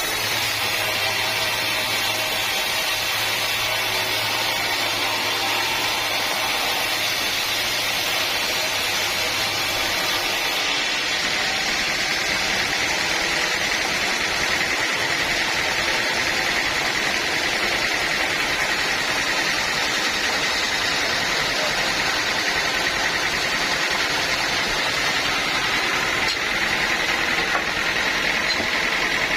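Sawmill machinery running steadily: a constant mechanical noise with a steady high-pitched tone through it. A low hum drops out about a third of the way in.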